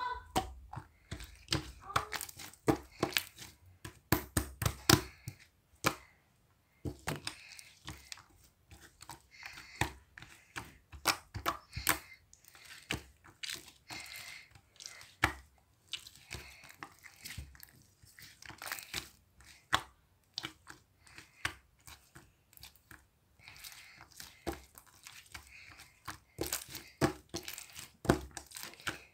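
Slime being worked by hand, squeezed and pressed, giving irregular sharp clicks and crackles, some in quick clusters.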